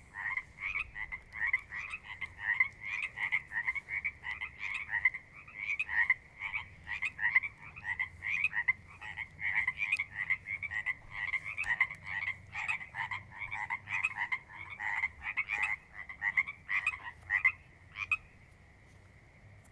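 Chorus of frogs calling from a pond, many quick creaky calls overlapping several times a second, then stopping abruptly near the end.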